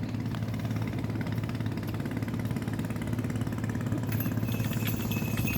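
An engine running steadily with a low, even hum. A thin high whine and a few light ticks join about four seconds in.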